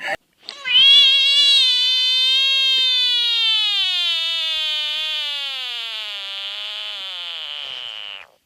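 An animal's single long, high-pitched call, held unbroken for about seven and a half seconds, slowly falling in pitch and fading before it stops.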